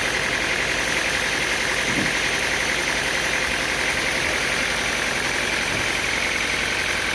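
An engine running steadily at constant speed: a continuous machine drone with a hiss on top, with no change in pitch or level.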